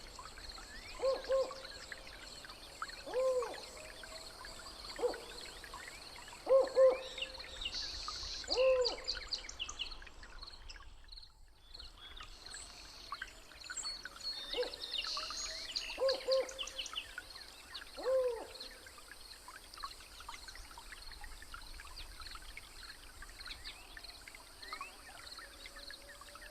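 Jungle night ambience: low hooting bird calls, single and paired, every couple of seconds over a steady high insect drone and scattered chirps. The hooting pauses briefly partway through.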